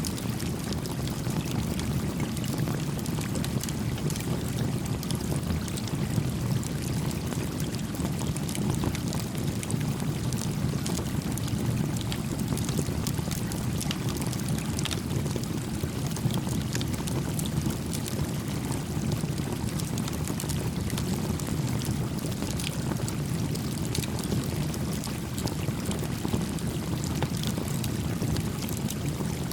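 A small campfire crackling beside a gently flowing stream: the water gives a steady low rush, with many sharp little crackles and pops from the burning wood scattered over it.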